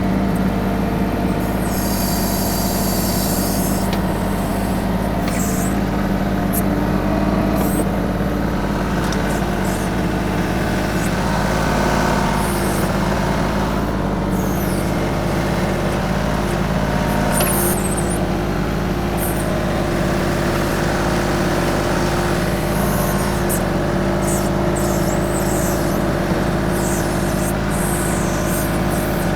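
TYM 2515H compact tractor's diesel engine running at a steady speed while working its BH150 backhoe. A high hiss comes about two seconds in, and short squeaks and clinks from the backhoe break in throughout.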